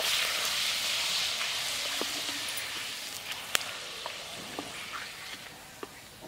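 An appalam (papad) deep-frying in hot oil in a clay pot: a loud sizzle as it puffs in the oil, fading steadily over a few seconds as it finishes cooking. A sharp click sounds about three and a half seconds in.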